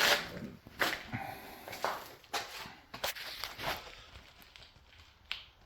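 A string of irregular knocks and scuffs, roughly one every half second to a second, thinning out near the end.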